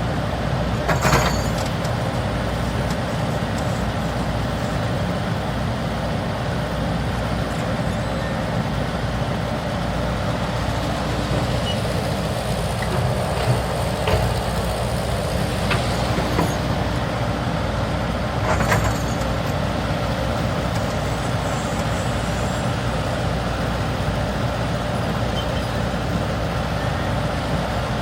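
Diesel engine of a Cat 320 GC hydraulic excavator running steadily, with a few sharp clanks or knocks: one about a second in and several more around the middle.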